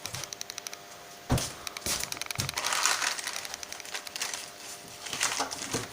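Hands swapping the sanding sleeve on a spindle sander: a quick run of even clicks, a sharp knock about a second and a half in, then scraping and rustling as the sleeve is handled. The sander is not running.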